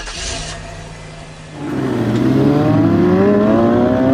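Dodge Charger's engine running quietly, then revved up about one and a half seconds in: the pitch climbs quickly and stays high, still rising slowly.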